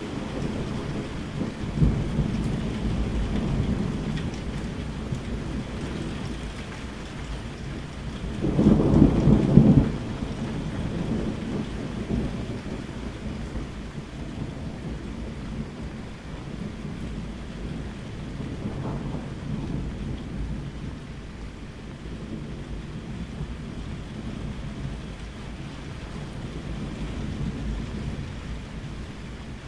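Steady rain with rolling thunder: a rumble in the first few seconds, a loud, close thunderclap about nine seconds in, and fainter rumbles later on.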